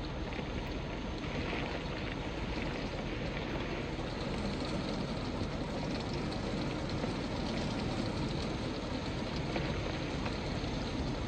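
Heavy rain and strong wind gusts from a severe thunderstorm line, a steady, even noise.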